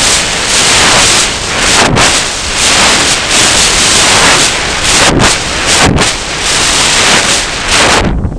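Strong gusty wind buffeting the microphone: loud, continuous wind noise that rises and falls with the gusts, with brief dips about five and six seconds in.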